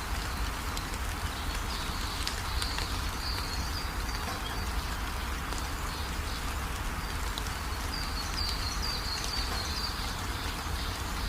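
Steady rainfall with a low rumble underneath. Short high chirping calls come through a few seconds in and again as a quick run of chirps near the end.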